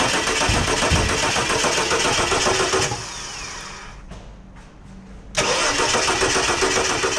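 Ford Falcon XE's 4.1-litre Crossflow inline-six engine running, with a fine regular pulse. It drops to a quieter level about three seconds in and comes back in loud about two seconds later.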